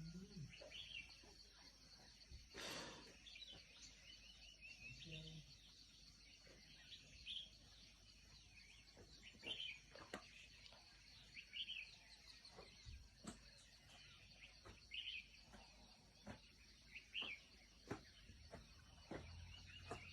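Faint outdoor ambience with birds calling: short chirps repeat every second or two over a steady high hiss, with scattered faint clicks.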